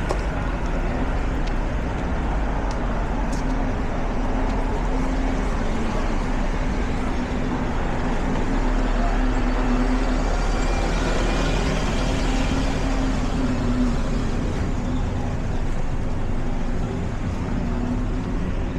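Road traffic with a motor vehicle's engine running, a steady low hum under a wash of traffic noise that swells a little around the middle.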